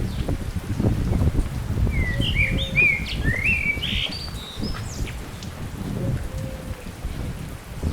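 A songbird sings a quick run of varied, warbling chirps from about two to five seconds in. Under it, wind buffets the microphone with a gusty low rumble, strongest in the first seconds.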